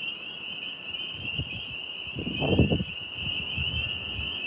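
Steady high chirring of crickets, with a few low rustling noises around the middle.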